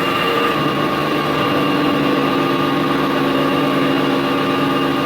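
Crankshaft grinding machine running steadily on a compressor crankshaft, a loud even machine hum with several held tones; a lower tone joins about half a second in.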